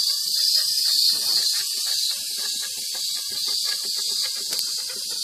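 A loud, steady high-pitched hiss, with faint scattered lower sounds beneath it; it cuts off suddenly.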